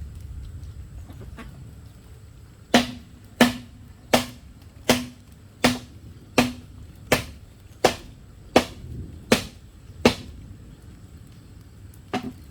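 A tool striking bamboo eleven times at a steady pace, about one blow every three-quarters of a second, each with a short hollow ring. A quick double tap follows near the end.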